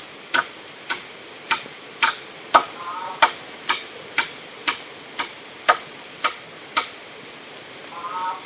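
Hammer driving nails into wood: a steady run of sharp, ringing blows at about two a second that stops about seven seconds in.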